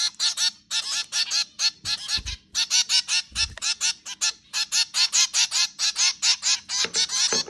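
Zebra finches calling: a dense, nonstop chatter of short nasal honking calls, several a second, from a group of birds. A few soft low thumps come through about two and three and a half seconds in.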